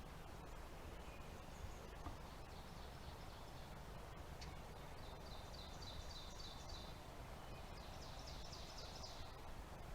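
A small songbird sings a high, rapid trilled phrase three times, each lasting one to two seconds, the first one faint. A steady outdoor background hush runs underneath.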